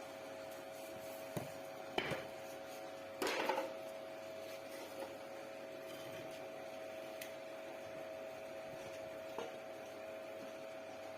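Steady machine hum with a fixed tone, broken by a few sharp knocks, a short cluster of clatter about three seconds in, and a last single knock near the end.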